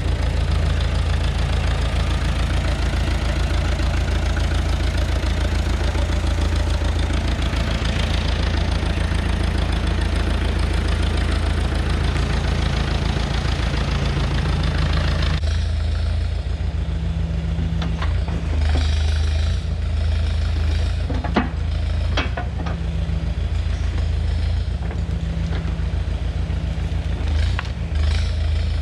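Tractor engine running steadily, with a rushing noise over it that cuts off suddenly about halfway through. The engine keeps running after that, its hum rising and falling, with a few sharp clanks.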